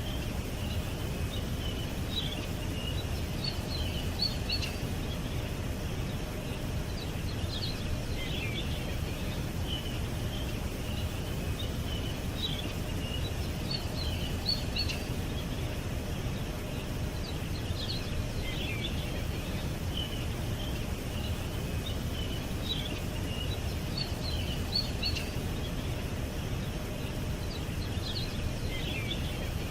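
Birds chirping in short, high calls every few seconds over a steady low rumble of background noise.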